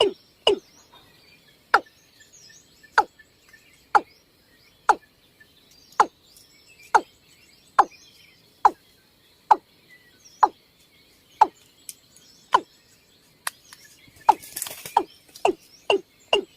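Water cock (Gallicrex cinerea) calling: a series of short notes that each drop in pitch, spaced about one a second, then quickening into a fast run near the end. Faint high chirps sound behind it, with a brief burst of noise shortly before the end.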